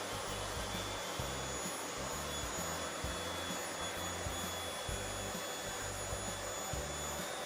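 Vacuum cleaner running steadily with a thin high motor whine, with background music underneath.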